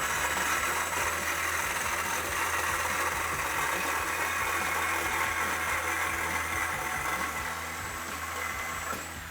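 Reciprocating saw (Sawzall) running steadily as it cuts through the factory exhaust pipe to remove the stock muffler.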